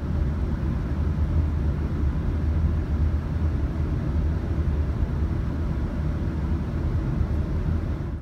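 Steady low rumble of a conventional suburban passenger train running, heard from inside the carriage; it cuts off suddenly near the end.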